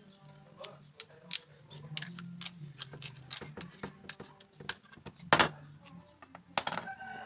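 Irregular sharp clicks and taps of hand tools working bamboo, with one louder knock about five seconds in.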